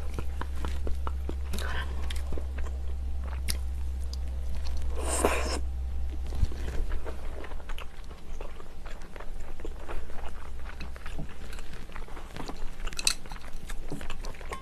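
Close-miked chewing of a mouthful of rice and spicy seafood stew: small wet mouth clicks and crunches, with a few louder noisy bursts, the biggest about five seconds in.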